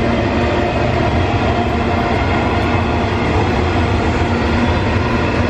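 A coal train passing: a steady, loud rumble and rattle of the wagons on the rails, a bit noisy.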